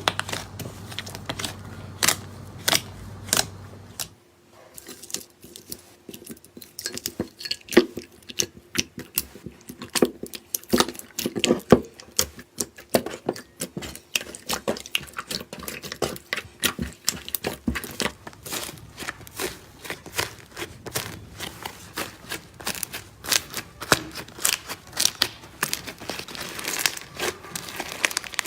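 Slime being handled, making dense, irregular crackling and popping clicks.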